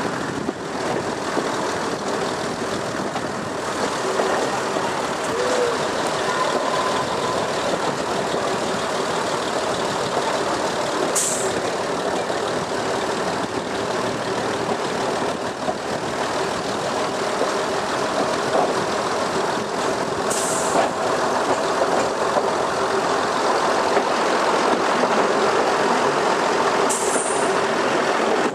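Class 108 diesel multiple unit running along the line, heard from inside the carriage: a steady mix of engine hum and wheel-on-rail noise. Three brief high-pitched sounds cut through, about 11 seconds in, about 20 seconds in and near the end.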